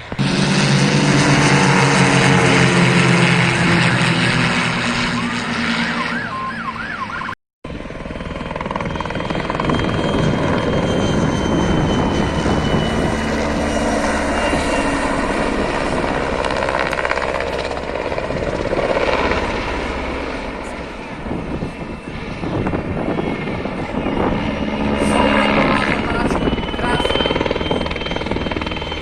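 A helicopter flying past: engine and rotor noise with the pitch falling over the first few seconds, then a steady rushing sound with a thin high whine. The sound cuts out for a moment about seven seconds in.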